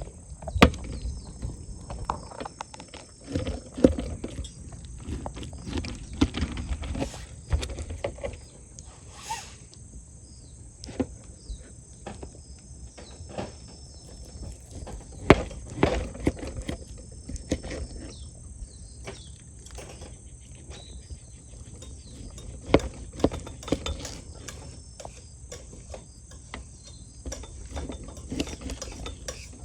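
Meat cooking on an iron griddle over a wood fire: a faint steady hiss with irregular sharp clicks and knocks throughout.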